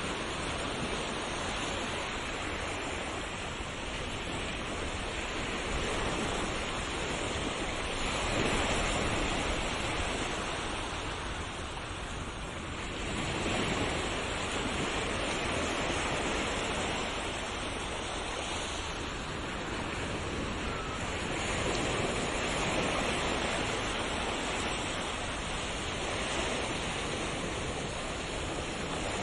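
Ocean waves: a steady wash of surf that swells and eases every several seconds.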